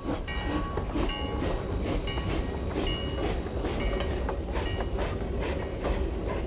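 1891 Rogers 4-6-0 steam locomotive pulling a short train of wooden coaches slowly into a station: an even beat about three times a second over a low rumble, with short metallic ringing tones.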